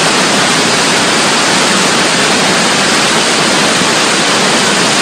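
Loud, steady rushing of water, an even hiss with no breaks, ending abruptly at a cut.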